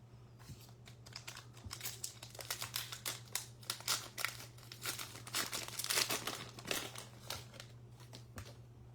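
Plastic trading-card pack wrapper being torn open and crinkled, a run of dense crackling that builds, peaks past the middle and dies away near the end, over a steady low electrical hum.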